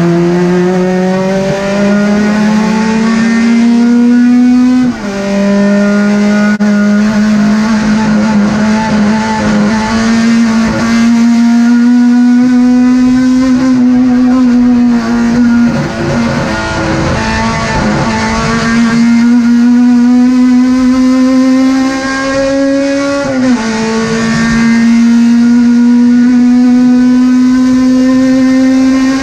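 Race car engine held at high revs, its pitch climbing slowly through each gear. There are sharp drops at upshifts about five seconds in and again near the end, and a brief easing off around the middle.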